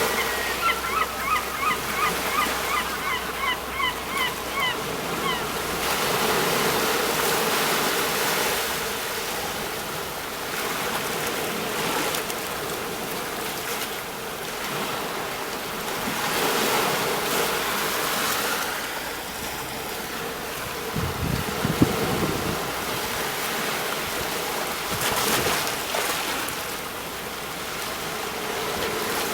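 Sea waves breaking on a shore: a steady wash of surf that swells and falls every few seconds. For about the first five seconds a bird calls in a quick series of short notes, roughly three a second.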